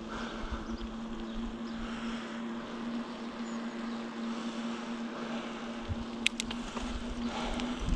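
A steady low mechanical hum at one unchanging pitch over a rushing noise, with a few sharp clicks about six seconds in.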